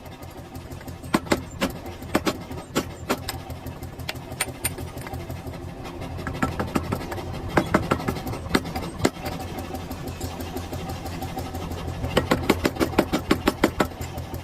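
Hammer blows ringing on a hot steel axe blank as its eye is being reshaped and trued. The strikes come irregularly, in quicker runs about halfway through and near the end, over a steady low motor hum.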